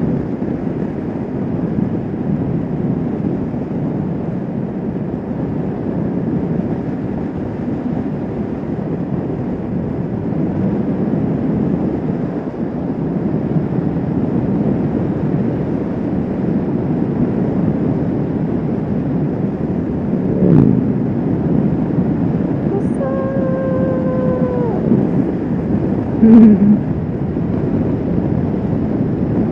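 Kawasaki Vulcan S 650 motorcycle riding at speed: a steady rush of wind and road noise over the engine. About two-thirds through, a held pitched tone lasts about two seconds, slightly falling, with short blips just before and after it.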